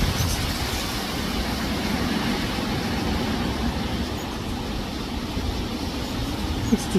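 Wind blowing across the microphone: a steady, fluctuating rush of noise with a heavy low rumble.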